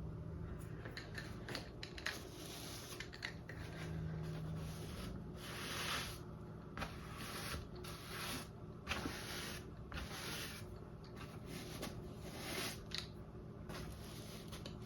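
Paintbrush bristles scrubbing and twisting on a wet acrylic-painted stretched canvas: a series of short, soft swishes, roughly one a second and uneven in spacing.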